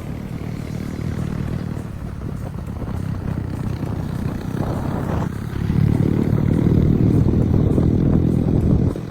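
Yamaha R15 motorcycle engine running. It grows louder a little past halfway through, holds there, and drops back suddenly near the end.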